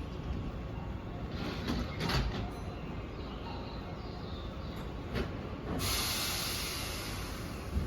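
Keihan 1000 series electric train rumbling, with a few metallic clunks, then a sudden loud hiss of compressed air starting about three-quarters of the way through.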